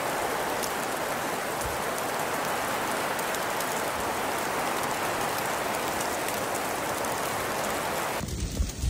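Steady hiss of precipitation pattering on surfaces, with faint scattered ticks. It cuts off abruptly about eight seconds in, where a lower rumble takes over.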